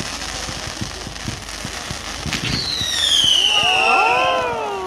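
Fireworks going off: a dense crackling and popping, then a sharp bang a little over two seconds in, followed by several shrill whistles that slide down in pitch.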